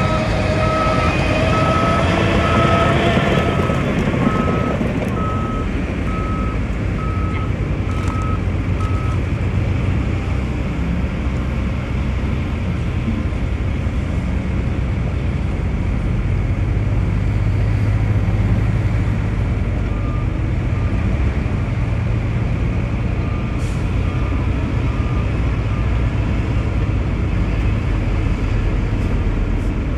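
Heavy construction machinery's diesel engine running steadily, with a reversing alarm beeping at an even pace for the first nine seconds or so and again more faintly about twenty seconds in.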